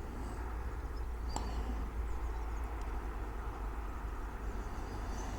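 Steady outdoor background noise with a deep rumble and a hiss, and a few faint, brief high chirps.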